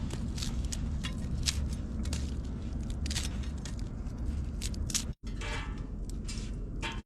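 Low wind rumble on the microphone, with scattered short crunches and scrapes; the sound cuts off abruptly about five seconds in and resumes.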